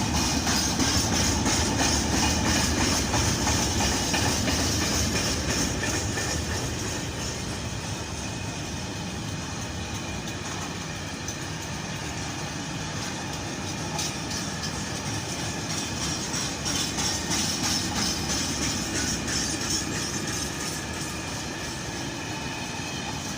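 A train running past on the rails: a steady rumble with a hissing wheel-on-rail noise and some clickety-clack. It is loudest in the first few seconds, eases off, then swells again about two-thirds of the way through.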